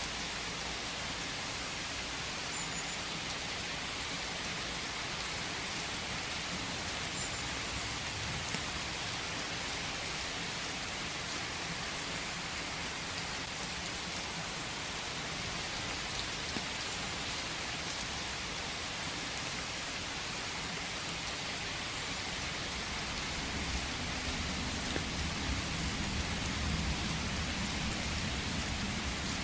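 Steady rain falling, an even dense hiss, with a low rumble swelling in the last few seconds.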